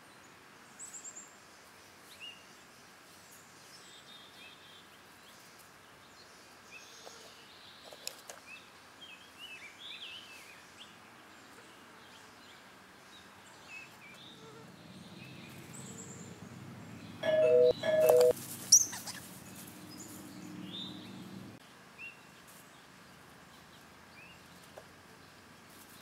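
A doorbell chime rings two short notes about two-thirds of the way in, the loudest sound here. Small birds chirp on and off throughout, and a low steady hum runs for several seconds around the chime.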